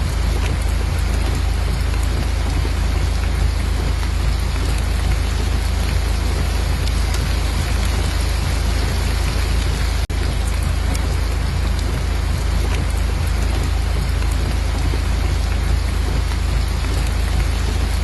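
Steady rain falling, a dense, even hiss of drops with a deep low rumble underneath. It cuts out for an instant about ten seconds in.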